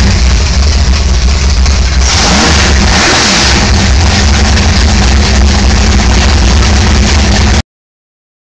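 A 1050-horsepower speedboat's engine running loud and steady, its note dipping and rising again with added rushing hiss between about two and three and a half seconds in. The sound cuts out abruptly to silence about a second before the end.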